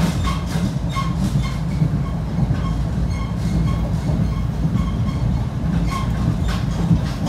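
NJ Transit commuter train heard from inside the passenger car while under way: a steady low rumble of wheels on rail, with light clicks about twice a second.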